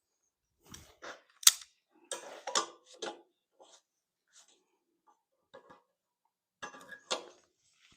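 Scattered clanks and rattles of metal tools being moved and handled while searching for a pair of vice grips, with one sharp, loud clank about a second and a half in and another cluster near the end.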